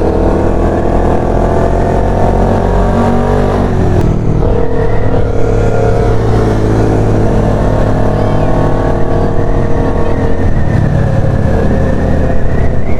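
Motorcycle engine pulling under acceleration, its pitch climbing slowly, then breaking at a gear change about four seconds in before running on at a fairly steady speed, with a heavy low rumble of wind and road noise.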